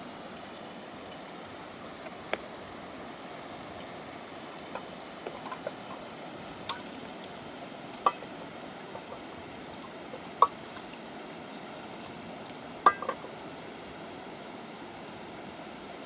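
Steady rushing of a river, with several sharp clicks and clinks over it, the loudest three coming in the second half.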